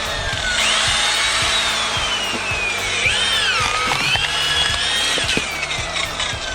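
A power machine's motor whining under load, its pitch sagging slowly as it works and then springing back up twice when the load eases, with scattered knocks. It is probably a wood-splitting machine at work on a pine stump.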